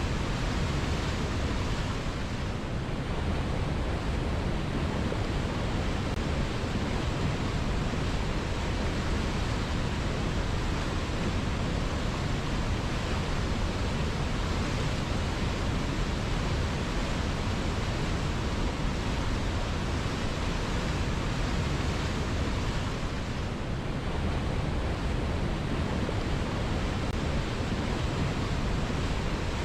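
A river flowing: a steady rush of water, even and unbroken, with slight dips in the higher part of the sound twice, a couple of seconds in and near the end.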